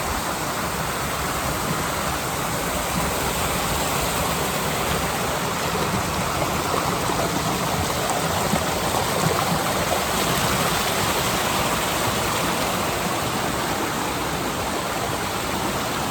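Steady rushing of water over rocks, a constant even roar of a mountain stream.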